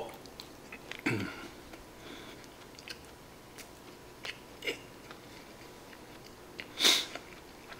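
A person chewing a mouthful of nori-wrapped rice ball (onigiri), with small scattered mouth clicks and smacks. A short low sound about a second in, and a louder breathy burst near the end.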